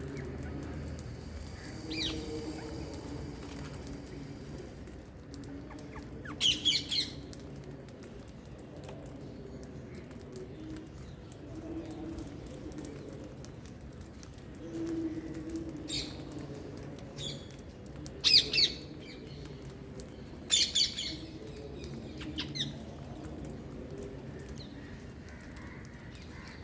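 Wild green parakeets giving short, harsh screeching calls in about five separate bouts, the loudest about two-thirds of the way through, over a steady low background.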